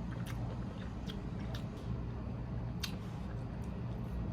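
Quiet eating sounds: a few small clicks and smacks of chewing and of a utensil in a food container, over a steady low hum.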